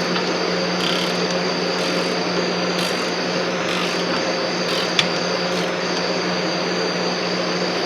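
Steady mechanical hum and hiss, with a single sharp click about five seconds in.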